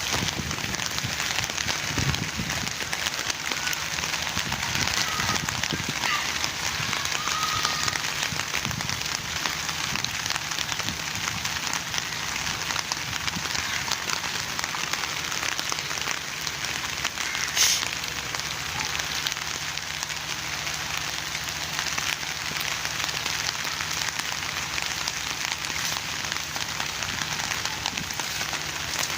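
Steady rain falling, a dense, even hiss of drops, with a single sharp knock a little past the middle.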